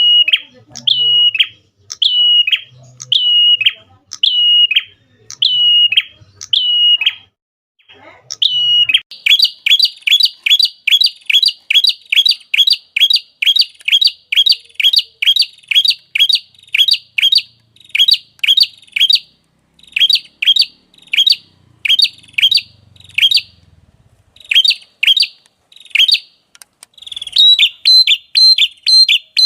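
Prinia (prenjak) calling: a sharp, high chirp repeated about once a second, then from about nine seconds in a fast run of chirps, about three a second, with short breaks.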